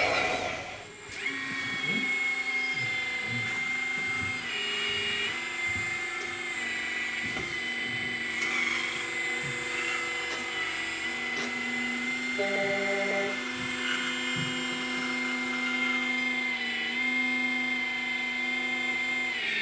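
Whine of the small electric motors in radio-controlled construction models. The pitch steps up and down every second or two as the machines are worked, with a few faint clicks.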